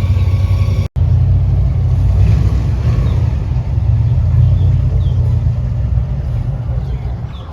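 Airboat running at speed, a loud low rumble from its engine and propeller. The sound drops out for an instant about a second in and eases off near the end.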